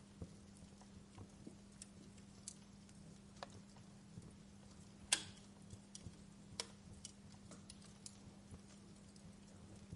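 Wood fire in a fireplace crackling, with scattered small snaps and one louder pop about five seconds in, over a faint steady hum.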